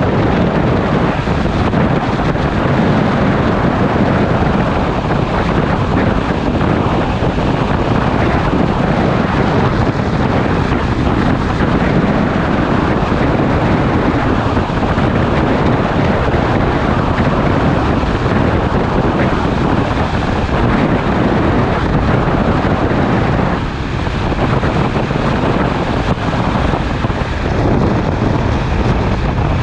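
Wind rushing over the microphone of a camera on a moving motorcycle at road speed, a steady loud roar that all but covers the engine. It eases briefly about two-thirds of the way through.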